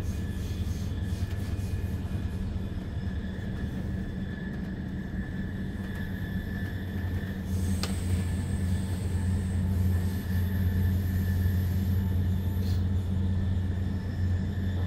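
Double-deck S-Bahn train (Re 450 DPZ) running at speed, heard from inside the passenger cabin: a steady rumble of wheels on rail with a faint steady whine. It grows louder about halfway through, with a brief click just before.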